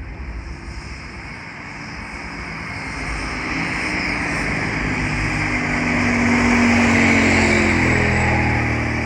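A sports car's engine approaching at low speed. Its note grows louder over several seconds and peaks about seven seconds in, then its pitch drops slightly as it passes and fades.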